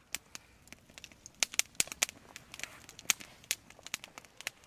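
Wood fire crackling: irregular sharp pops and snaps, a few louder ones among many small ones.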